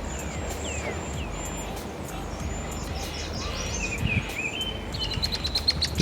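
Several wild birds calling and singing: thin high whistles, short downward-sliding notes, and near the end a quick run of repeated chirps, over a steady low background rumble.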